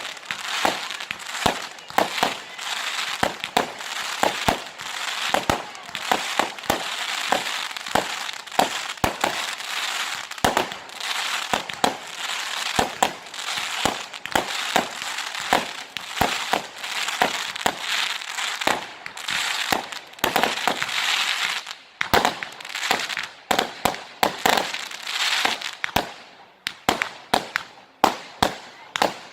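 Fireworks going off in rapid succession: a dense run of sharp bangs, several a second, over continuous crackle, with a brief lull about two-thirds of the way through.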